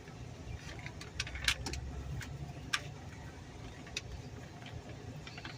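Automatic car wash tunnel heard from inside the car: a steady low rumble with scattered sharp clicks and taps, the strongest about a second and a half in.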